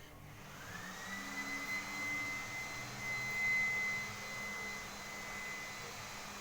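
An electric motor spins up with a rising whine, then runs steadily with a high whine and a low hum beneath it.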